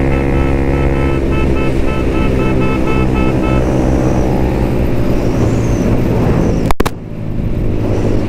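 Suzuki Gixxer 155's single-cylinder engine running steadily at road speed. A string of short, evenly spaced beeps sounds for a couple of seconds about a second in, and there is a sharp click near the end.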